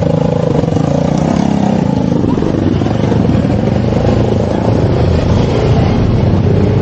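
Motorcycle engine running steadily while riding, heard close up with a steady low hum.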